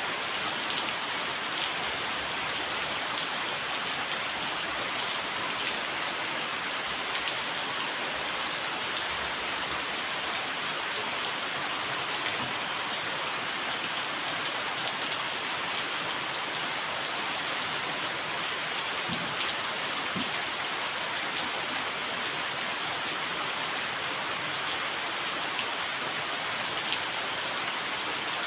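Steady rain falling: an even hiss with occasional single drop ticks.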